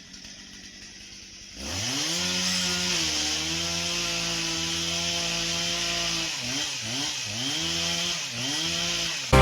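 Chainsaw, quiet at first, revs up sharply about a second and a half in and holds at high speed, cutting into a felled hollow tree. Near the end its pitch dips and recovers several times.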